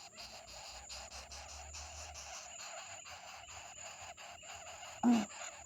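Steady outdoor insect chorus with a thin, high continuous whine running under it. Just after five seconds, one short, loud, low-pitched bird call.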